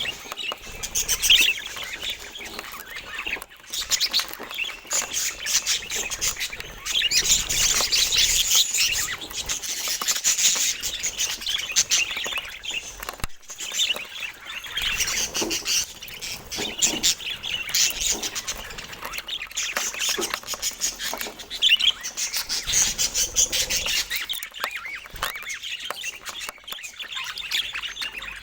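Budgerigars chattering: continuous rapid chirps, warbles and squawks from several birds, broken by a momentary gap about thirteen seconds in.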